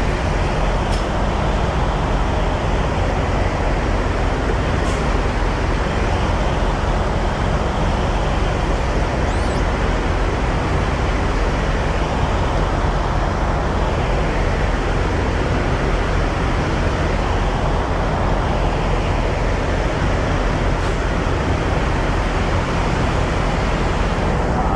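Semi-truck driving on the highway: a steady drone of engine and road noise.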